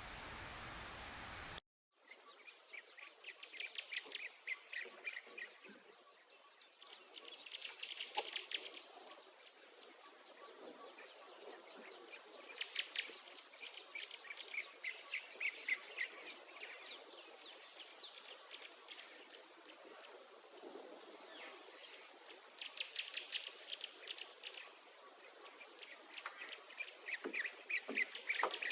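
Woodland insects chirping: a steady high buzz with a regular high chirp about once a second, crickets among them. Bursts of rapid trilling come every few seconds, and a short dropout breaks the sound about two seconds in.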